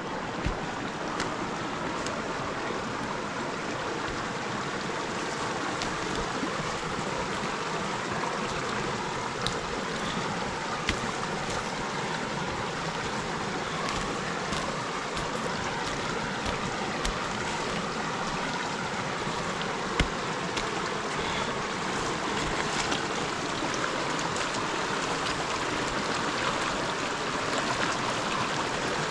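River water flowing steadily with an even rushing sound, with scattered faint clicks and one sharper click about twenty seconds in.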